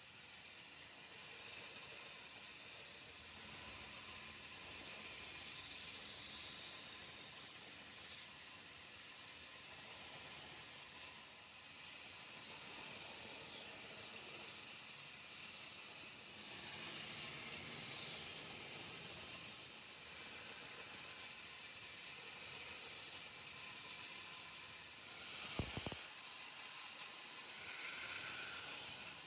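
Steady faint high-pitched hiss, with one short knock near the end.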